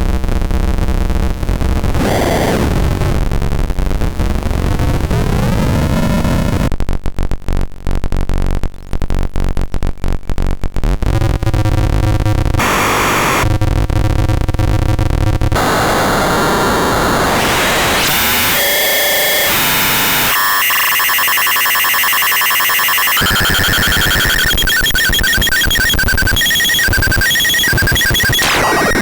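Eurorack square-oscillator noise module (a Jupiter Storm–style design) putting out harsh electronic noise: buzzing stacked tones, a stretch of rapid clicking pulses, then high whistling tones and noisy textures. The timbre switches abruptly every few seconds as outputs and settings change.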